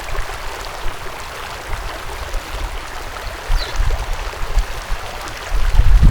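Wind gusting on the microphone as uneven low rumbling, growing stronger near the end, over a steady outdoor hiss. A faint short bird chirp comes about three and a half seconds in.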